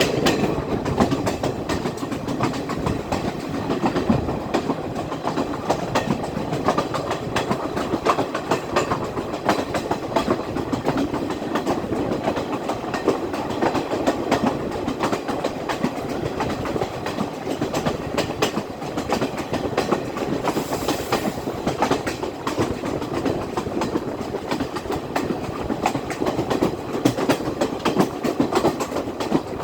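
Class S14 diesel multiple unit running along the line, heard from aboard: a steady rumble with the rapid clickety-clack of wheels over rail joints.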